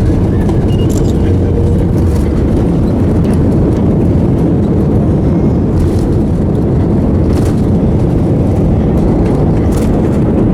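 Steady roar of an airliner's engines and airflow heard from inside the passenger cabin, with a faint hum that fades out about two seconds in and a few light clicks.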